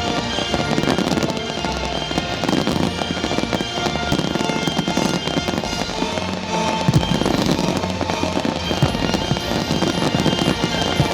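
Fireworks bursting and crackling over a loud music soundtrack, with frequent sharp bangs, one of the loudest about seven seconds in.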